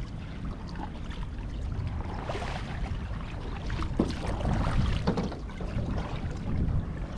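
Water splashing and rushing around a kayak on the river, with wind rumbling on the microphone.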